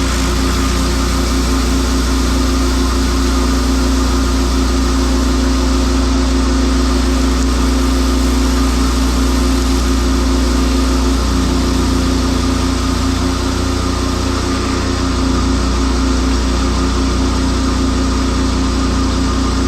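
High-flow pressure washer at 10.5 gallons a minute: its engine running steadily with the hiss of water spraying from a surface cleaner passing over concrete. The low engine note shifts about eleven seconds in.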